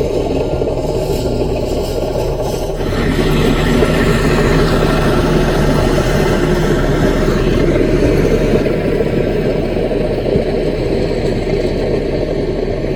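Caterpillar mini bulldozer's diesel engine running steadily, working harder and louder about three seconds in, then easing back after about eight seconds.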